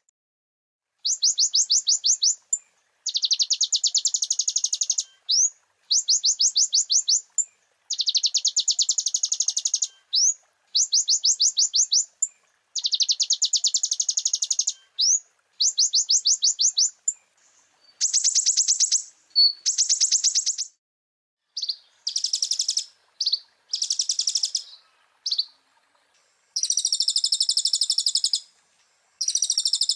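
A kolibri ninja (konin) sunbird singing in high, fast trills: phrases of rapidly repeated notes lasting a second or two, separated by short pauses. In the second half the phrases change to buzzier, denser trills and a lower two-part warble, the varied imitated material that keepers call 'isian'.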